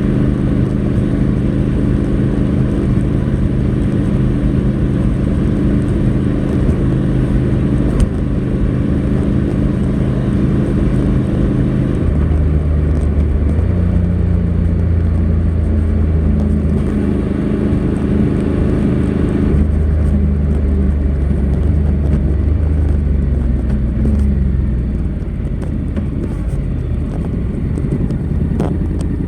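Honda NC700X's parallel-twin engine running through its stock exhaust, holding a steady note, then dropping to a deeper note about twelve seconds in and changing pitch in a few steps, slightly quieter near the end.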